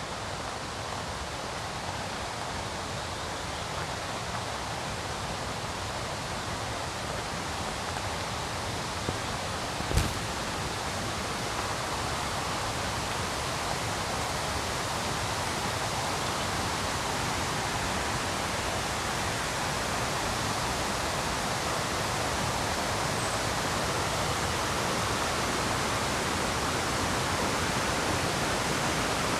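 Steady rush of river rapids, a continuous even roar of white water that grows gradually louder. One sharp click about ten seconds in.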